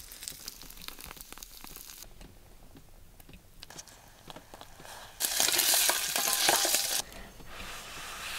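Cooking sounds: faint crackling and small clicks, then a loud sizzle of food frying in a pan about five seconds in. The sizzle lasts under two seconds and cuts off suddenly.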